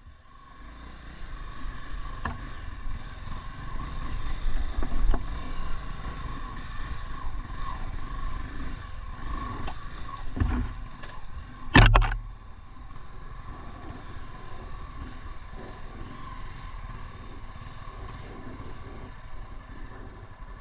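Honda Tornado 300 trail motorcycle's single-cylinder engine running under load on an off-road climb, with one loud sharp knock about twelve seconds in. The engine settles quieter and steadier after the knock.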